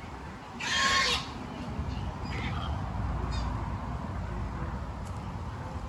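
A bird calling: one loud, harsh call about a second in, then a few fainter calls, over a steady low background rumble.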